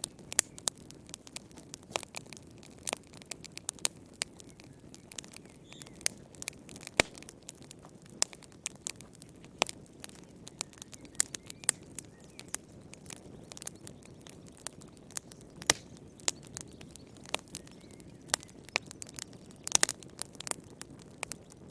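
Wood fire crackling: frequent sharp, irregular pops and snaps over a steady low hiss of burning.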